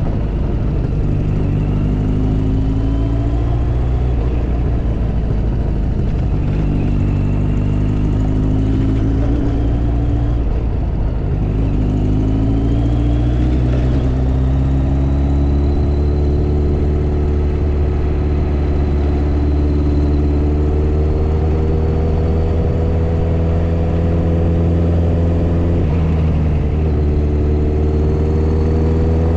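Motorcycle engine pulling through the gears: the pitch climbs and drops back three times in quick succession as it shifts up, then rises slowly and steadily at cruising, with a brief dip near the end.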